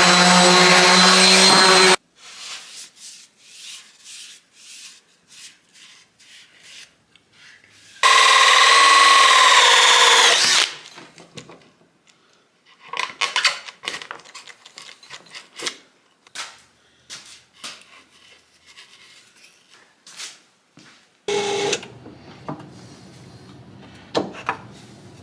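Electric sander with 220-grit paper running on wood in two bursts of a few seconds, the second winding down in pitch as it stops. Knocks and clicks of wood being handled fill the gaps.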